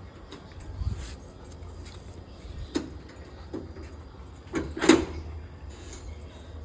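A door being unlocked and opened: scattered clicks and knocks, with one loud clack about five seconds in.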